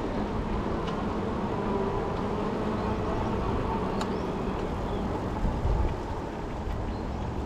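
Ecotric 20-inch folding fat-tire e-bike riding along: a steady rumble of the fat tyres rolling, with wind on the microphone. A single click sounds about four seconds in.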